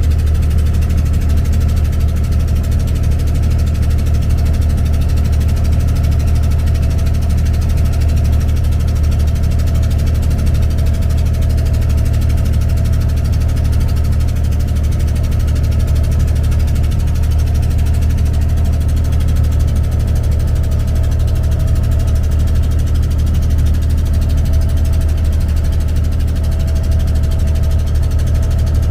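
Abra's diesel engine running steadily, a low drone that holds the same pitch and level throughout.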